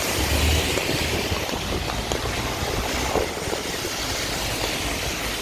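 Rain and city traffic on wet streets: a steady hiss of falling rain and tyres on wet pavement, with a low vehicle rumble around half a second in.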